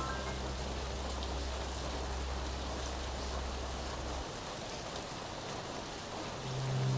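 Steady rain falling, an even hiss of drops, with soft background music underneath: a low held note stops about four seconds in, and music notes come back near the end.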